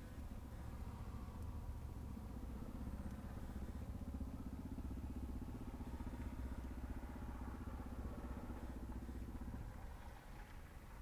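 A motor vehicle engine running at low revs, a steady low rumble that eases off near the end.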